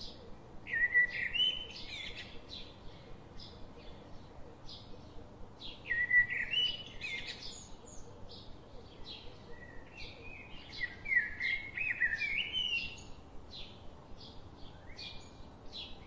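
Birds singing: three longer phrases of stepped, rising notes, each a second or two long, with short high chirps repeated in between.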